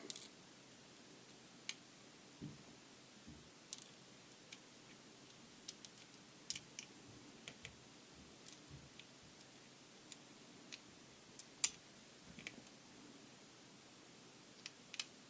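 Scattered faint clicks and light taps from small Karcher K5 pressure-washer pump parts, such as the valves, being handled and fitted by hand. The sounds come irregularly, with a few soft thuds among the clicks.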